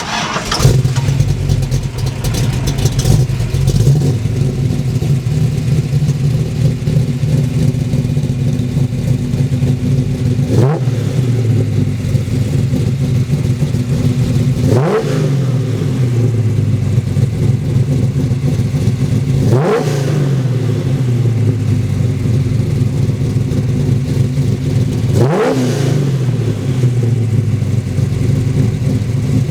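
AMC Javelin V8 running through a stainless steel header-back exhaust system, idling steadily with four quick throttle blips, each rising sharply and falling back to idle, spaced about five seconds apart.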